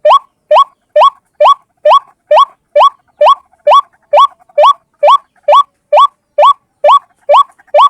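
White-breasted waterhen (ruak-ruak) calling in a steady series of short rising notes, a little over two a second, as used to lure the bird.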